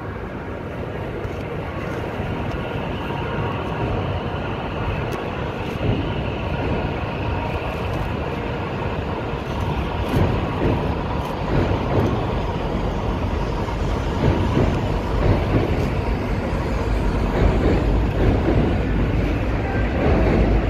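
Railway platform ambience: a steady low rumble of trains on the station tracks that grows slightly louder toward the end, with a few faint clicks.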